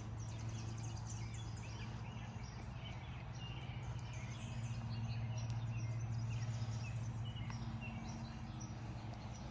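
Outdoor ambience: faint scattered birds chirping over a steady low hum.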